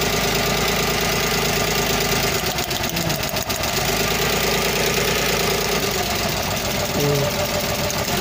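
Multicab engine idling steadily; from about two and a half seconds in, its running is briefly unsteady for roughly a second, then settles again.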